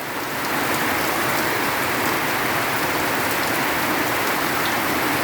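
Heavy rain falling in a steady downpour, an even hiss that swells slightly about half a second in and then holds.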